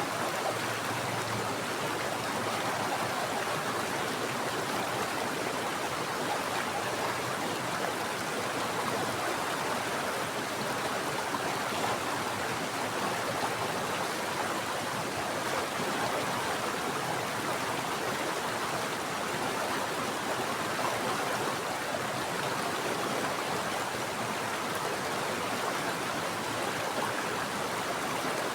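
Mountain stream running steadily over rocks, a constant rushing of water.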